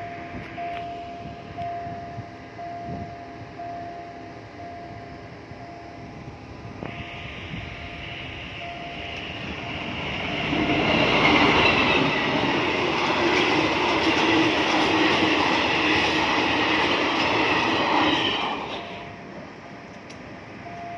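A level-crossing warning signal repeats a single tone. Then a diesel-hauled ordinary passenger train builds up and passes close by for about eight seconds, a loud rush of engine and wheel-on-rail noise that drops away quickly. The warning tone is heard again near the end.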